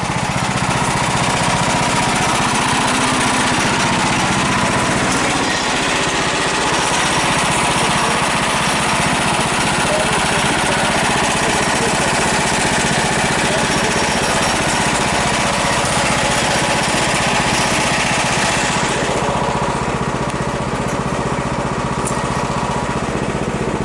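Small engine of an 18-inch-gauge miniature railway locomotive running steadily, like a lawn mower engine, with a steady hiss of the train rolling along the track. The hiss eases off over the last few seconds.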